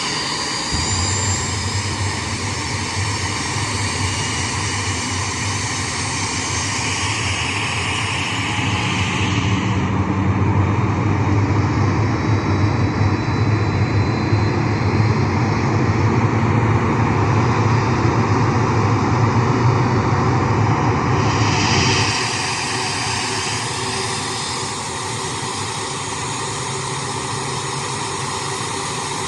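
Boeing 737-400's CFM56-3 turbofan engine running at ground idle during a run-up check: a steady rumble and rush with thin whining tones. From about a third of the way in to about three quarters of the way through, it grows a little louder and deeper, then settles back.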